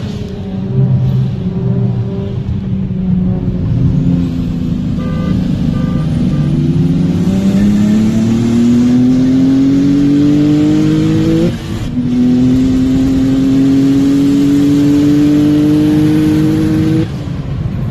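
Car engine pulling hard at full throttle, its pitch climbing steadily, dropping briefly as it shifts up about twelve seconds in, then climbing again until the throttle is lifted near the end.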